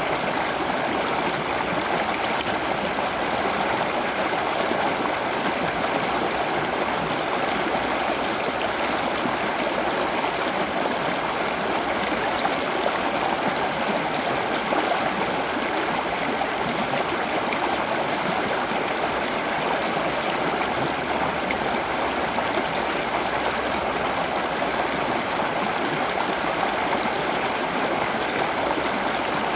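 Steady rushing of running water, like a stream, unchanging throughout.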